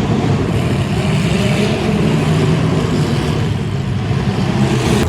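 Demolition derby car engines running loudly, a steady continuous drone.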